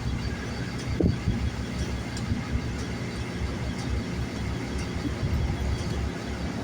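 Low steady rumble of a bus engine running, with one brief louder sound about a second in.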